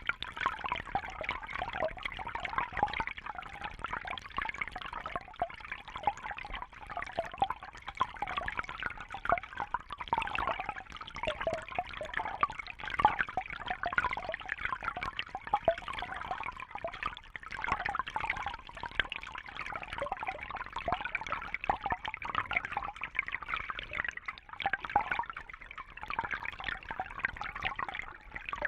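Water trickling and bubbling steadily, with a busy, irregular splashing texture.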